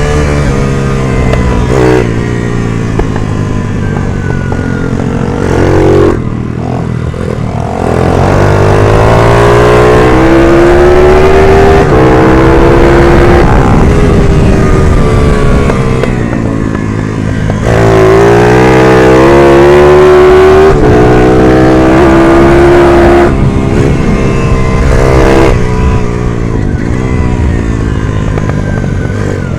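Stock 140 race minibike engine at racing revs. The pitch climbs in long pulls from about 8 and 18 seconds in, and falls away sharply about 6 and 16 seconds in as the throttle is rolled off.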